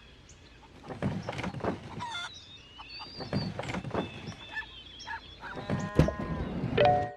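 Chickens clucking in short, uneven calls mixed with knocks, with a longer, drawn-out call from about five and a half seconds in.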